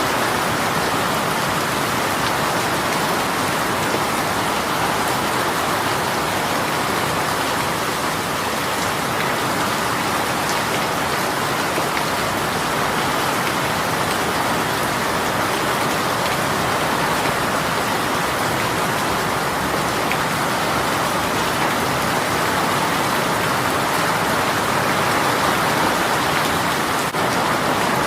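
Steady heavy rain from a sudden downpour, a dense even hiss of drops falling on surfaces, with faint individual drop ticks.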